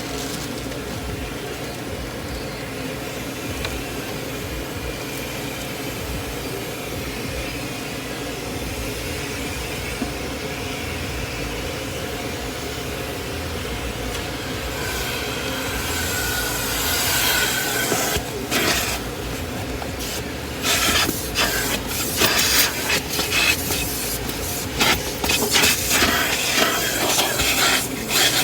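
Car wash vacuum running steadily. About two-thirds of the way in its pitch rises, and the sound breaks into short, uneven scraping and sucking strokes as the hose nozzle is worked over the car's seats and carpet.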